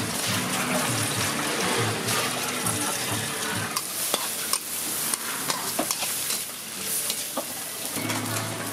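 Food frying and sizzling in a hot pan as it is stirred, with a few sharp clinks of a utensil against the pan about halfway through.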